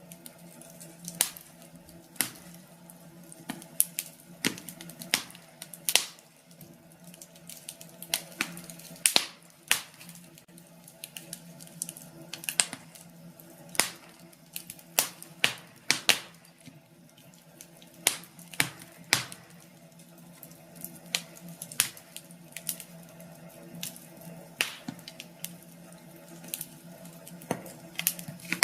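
Wood fire crackling in a fireplace: irregular sharp pops and snaps, sometimes several in a second, over a low steady hum.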